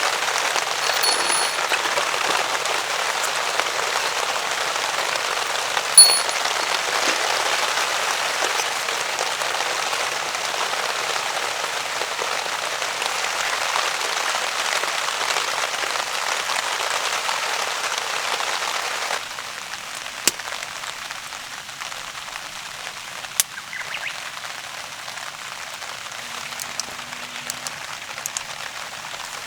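Heavy rain falling steadily on a camping tarp, with a single sharp knock about six seconds in. About two-thirds of the way through the rain abruptly becomes quieter, with a few faint clicks after.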